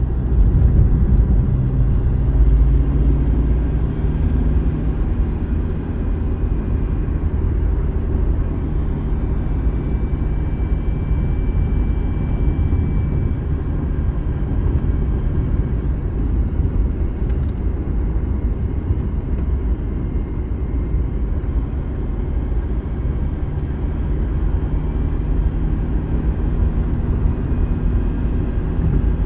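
Car travelling on the road: a steady low rumble of engine and road noise, with the engine note drifting slightly as it drives.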